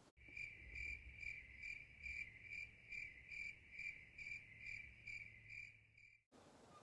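Cricket chirping sound effect edited in: one steady high chirp that pulses about two to three times a second, cutting in and out abruptly.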